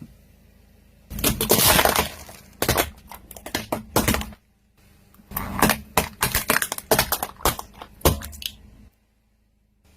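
Brittle objects cracking and crunching as a car's tyre rolls over them: a dense crunch about a second in, then two runs of sharp cracks, the second cutting off suddenly near the end.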